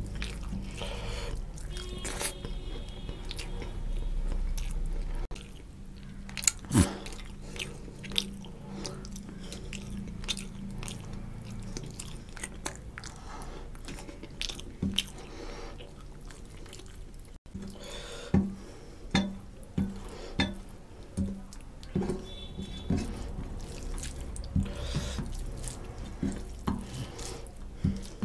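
A person eating rice and fish curry by hand: wet chewing with many short, sharp mouth clicks and smacks scattered throughout, more of them in the second half.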